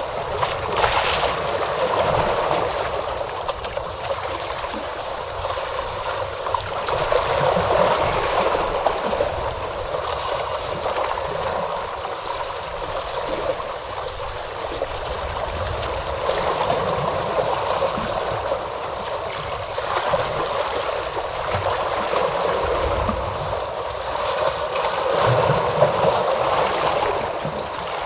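Ocean waves washing onto a shore: a steady wash of surf that swells and falls back every several seconds.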